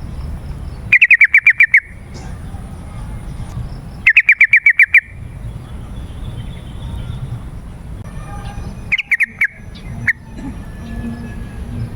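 Yellow-vented bulbul (trucukan) singing: loud bursts of about eight rapid, evenly repeated chattering notes, each lasting about a second, coming three times, with a shorter burst and a single note near the end.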